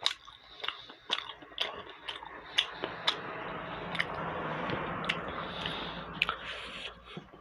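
Close-up chewing and biting of momo dumplings, with sharp wet mouth clicks and smacks every half second or so. A steady hissing sound runs under it through the middle few seconds.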